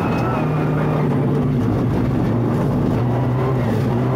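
Rally car engine running at a fairly steady pitch, heard from inside the cabin, with the note dipping briefly twice, over a haze of road noise.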